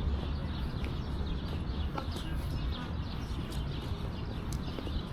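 Songbirds chirping and twittering, many short quick calls, over a steady low rumble of background noise.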